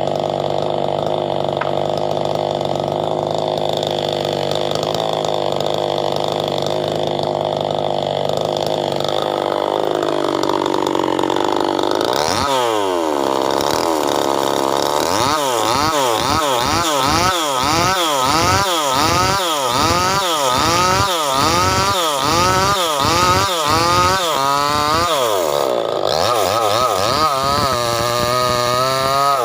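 Small 5800-type two-stroke chainsaw running steadily at speed for about ten seconds, then slowing. From about twelve seconds on it is revved up and down over and over, its pitch rising and falling one to two times a second.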